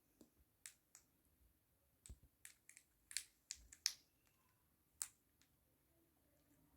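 A quiet series of small, sharp clicks and taps at irregular intervals, bunched together in the middle.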